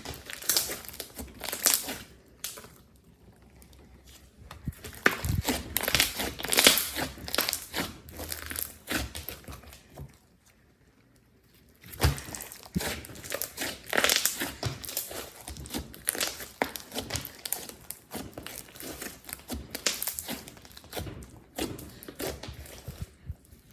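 Slime being squished, stretched and folded by hand, with rapid irregular crackling and popping. The sounds come in busy bursts, with two short pauses, one about three seconds in and another around ten seconds in.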